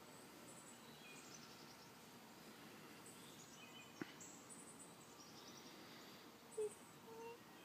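Faint songbird chirps and trills over near silence, with one sharp click about four seconds in and a brief high-pitched sound near the end.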